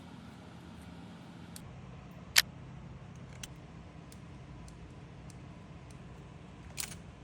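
Sharp clicks from handling a Fujifilm X-M5 mirrorless camera: one loud click about two and a half seconds in, a few faint ticks, and a quick double click near the end, over a steady low hum.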